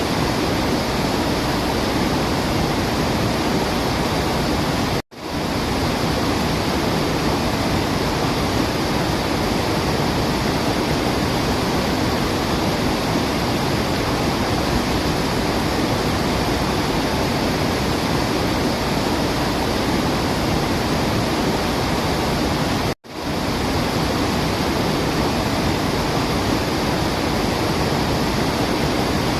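Waterfall rushing as a steady, even roar of water. It cuts out abruptly twice, about five seconds in and again some eighteen seconds later, and swells back each time within a moment.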